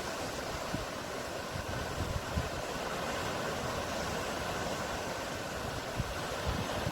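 Steady rush of ocean waves and surf, with some low wind rumble on the microphone.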